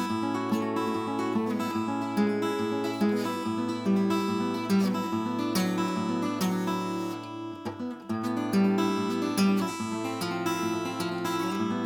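Steel-string acoustic guitar strummed in repeated chords that ring on, with a short break in the playing about eight seconds in.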